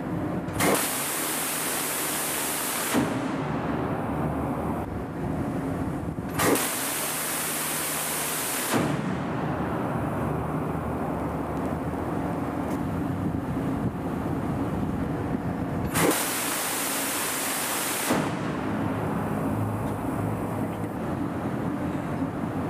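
Steady rumbling machinery noise with a low hum, broken by abrupt changes every few seconds. Three stretches of about two seconds each carry a loud, high hiss.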